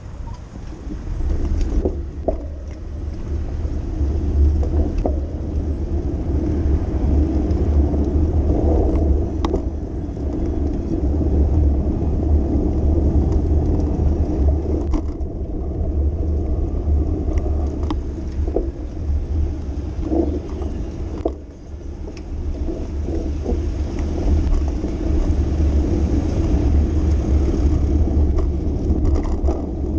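Steady low rumble of wind and road noise from a bicycle riding through city streets, with scattered light clicks and rattles. The rumble dips briefly about two-thirds of the way through.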